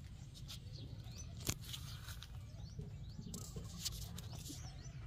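Scattered short, high bird chirps over a steady low rumble, with a few sharp clicks, the loudest about a second and a half in.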